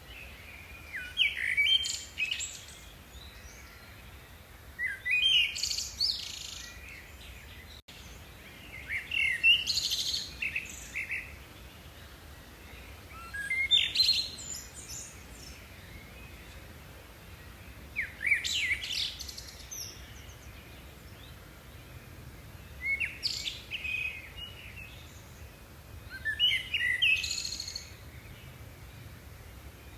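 A songbird singing, repeating a short, varied chirping phrase about every four seconds, seven phrases in all.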